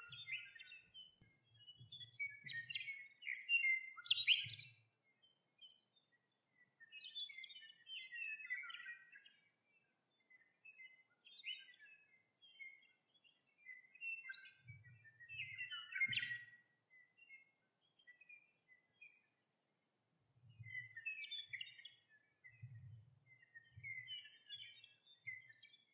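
Birds chirping and trilling in short, scattered calls, with faint low rumbles now and then.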